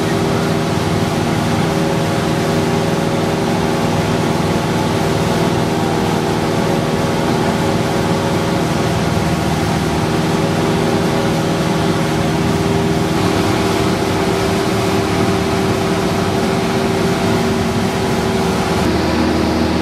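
Cessna 172's piston engine and propeller droning steadily in cruise, heard inside the cockpit, with a slight change in tone about two-thirds of the way through and again near the end.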